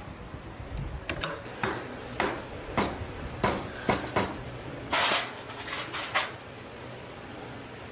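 A series of irregular sharp knocks and clatters, about eight, with one longer noisy burst about five seconds in.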